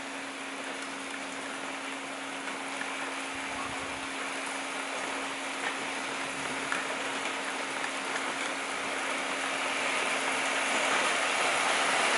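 Rain falling and growing steadily heavier, with a few sharper drop ticks on nearby surfaces, at the start of a thunderstorm.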